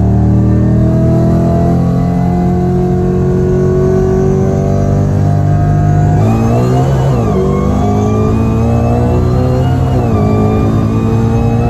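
High-powered V8 muscle car accelerating hard at full throttle, engine pitch climbing steadily. About six to seven seconds in the engine note drops as it shifts gear, then climbs again, with another brief shift near ten seconds in.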